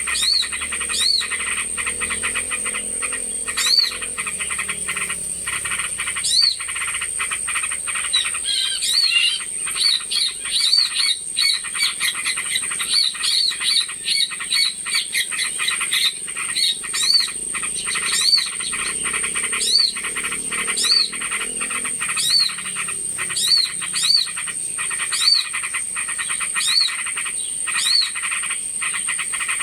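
Small-bird lure call recording: short rising-and-falling chirps repeated about once a second, coming in quicker runs for a stretch in the middle, over a dense pulsing chatter and a steady high-pitched whine.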